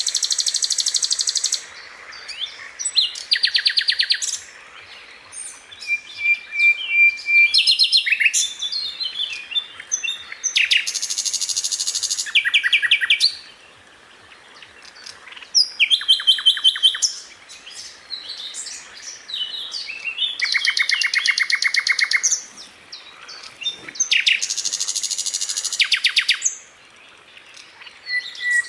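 Sikatan londo (grey-headed canary-flycatcher) singing: repeated bursts of very fast, high trilled notes, each lasting a second or two, with short pauses and softer chips and a thin whistle between them.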